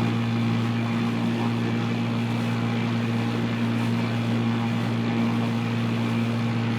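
A steady low engine drone with an even, unchanging pitch, like a propeller aircraft's engine.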